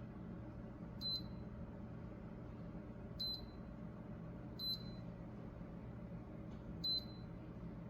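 Four short, high electronic beeps at uneven intervals from a wine and beverage refrigerator's touch control panel, over a steady low hum.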